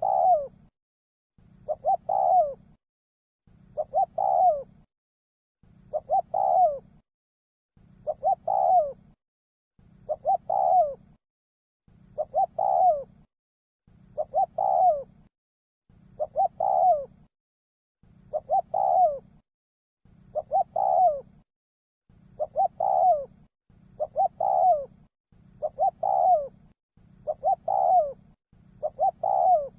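Spotted dove cooing. Each call is a couple of quick notes and a longer note that falls in pitch, repeated evenly about every two seconds.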